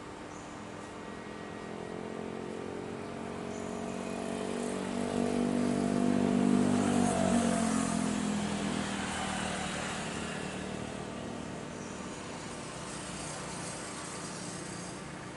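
Airbus A320-family jet airliner passing low overhead on its landing approach. The engine noise swells to a peak about halfway through and then fades, its whine sliding down in pitch as the aircraft goes by.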